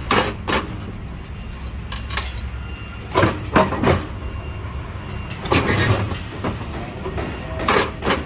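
Electric rebar bending machine running with a steady motor hum, while steel reinforcing bar knocks and clanks against the machine several times.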